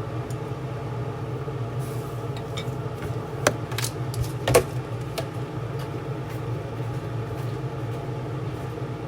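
A steady mechanical hum, with a few sharp clicks or clinks in the middle, the loudest about three and a half and four and a half seconds in.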